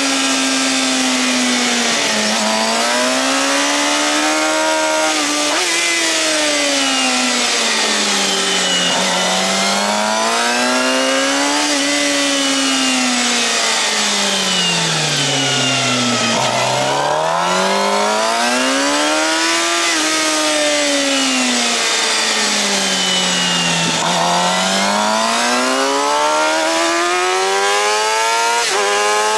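2013 Suzuki GSX-R750's inline-four engine with a Yoshimura R-11 slip-on exhaust, heard from the bike itself while lapping a circuit, with wind rush. The revs rise and fall in long sweeps through the corners and dip lowest about halfway through before climbing again.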